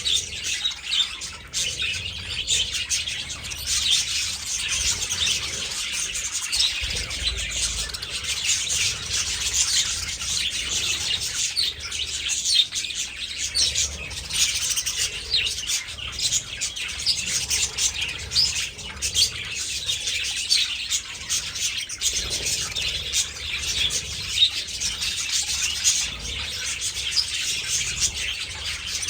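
A flock of budgerigars chirping and chattering continuously, many high twittering calls overlapping.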